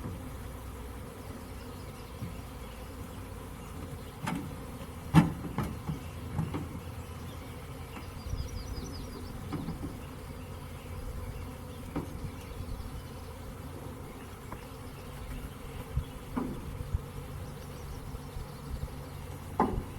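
Swarm of honeybees buzzing steadily in flight, with several sharp knocks scattered through, the loudest about five seconds in.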